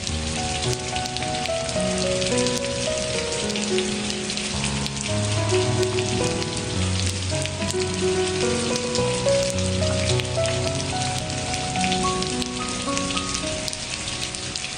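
Steady rain falling on a surface, a dense patter of drops, mixed with slow, soft background music of held notes that change every second or so.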